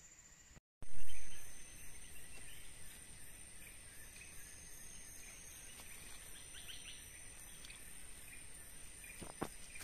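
Forest ambience with a steady high insect drone and scattered short chirps. A loud low thud comes about a second in, right after a brief cut in the sound.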